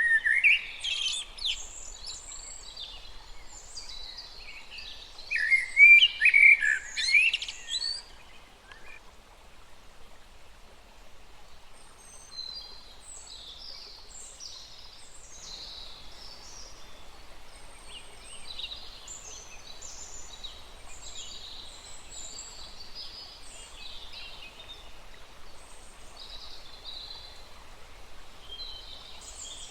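Wild birds singing and chirping. Loud calls come in two bouts in the first eight seconds, then softer scattered calls continue, over a faint steady hiss of a small stream.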